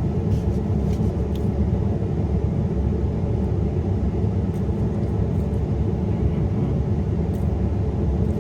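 Steady low rumble, like a running engine, with faint small clicks scattered over it.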